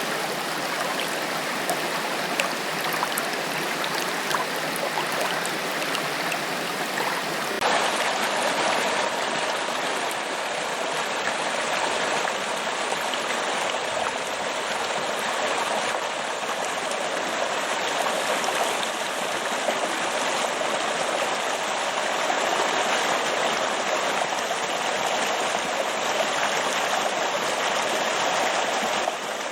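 Forest waterfall, a steady rush of water cascading over rocks. About eight seconds in the sound changes abruptly, becoming fuller in the middle of its range.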